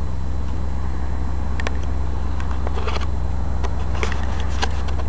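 Rebuilt 350 V8 of an early-1980s Chevy pickup running at a steady speed with a deep, even low rumble, a few light clicks over it.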